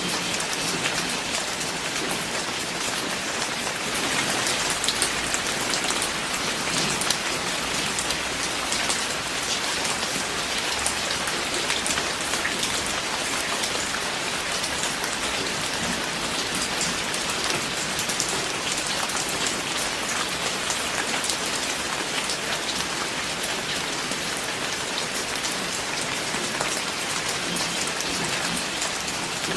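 Steady rain falling: a dense, even hiss with many small drop ticks, slightly louder a few seconds in.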